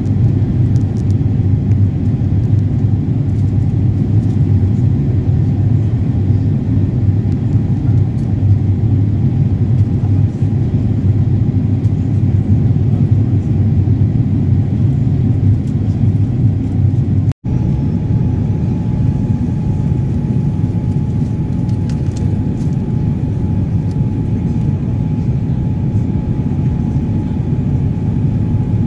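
Cabin noise inside an Airbus A350-900 with Rolls-Royce Trent XWB engines under power: a loud, steady low rumble of engines and airflow, with a faint steady tone running through it. It breaks off for an instant about 17 seconds in.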